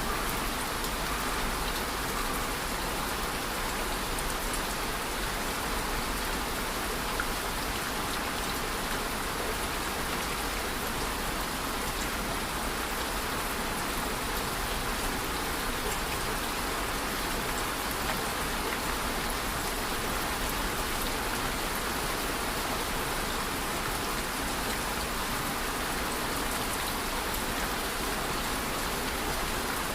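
Steady rain falling, an even patter of drops on a surface.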